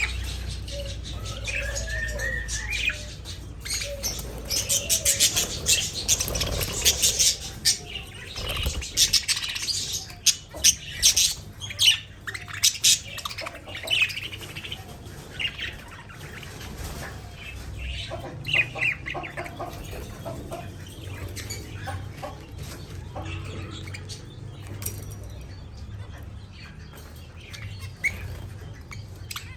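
Pet budgerigars chirping and fluttering their wings, with rapid sharp clicks from beaks pecking at egg food, busiest in the first half.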